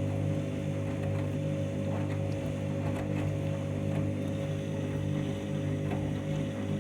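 Washing machine drum spinning at a steady speed, the motor giving a steady, even hum; the load is balanced, so the drum runs without knocking.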